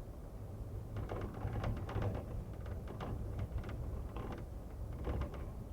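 Interior of a moving Amtrak passenger car: a steady low rumble from the running train with irregular creaks and rattles of the car body over it.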